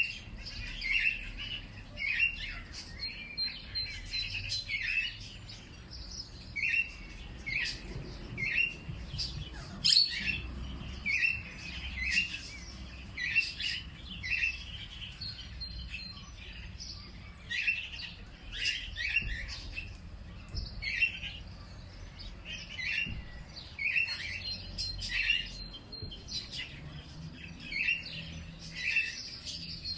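Birdsong: short chirps repeated over and over, about one or two a second, with a thin high whistle now and then.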